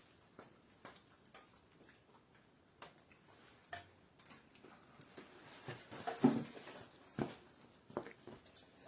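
Scattered light clicks and knocks, with a louder clatter of knocks about six seconds in.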